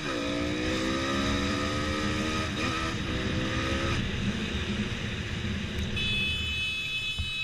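Motorcycle engine accelerating hard through the gears: its pitch climbs, drops sharply with an upshift at the start and again about two and a half seconds in, climbs once more, then settles into steady running from about four seconds in.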